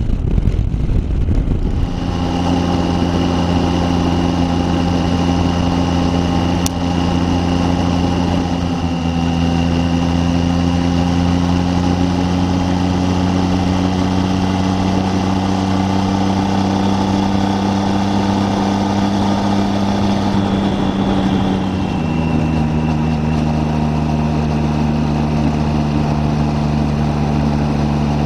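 Triumph Tiger 800's three-cylinder engine running steadily, its pitch creeping slowly upward, then dropping a step about three-quarters of the way through.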